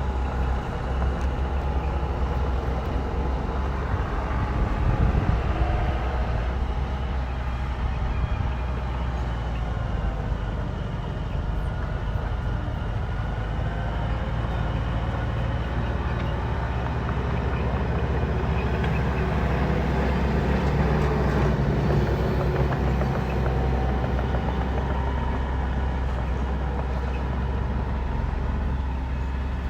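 Bulldozer's diesel engine running steadily under load, its pitch shifting up and down now and then.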